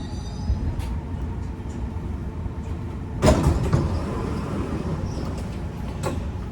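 Dubai Metro carriage at a station stop: a steady low rumble, with a louder sudden sound about three seconds in that fits the sliding doors opening.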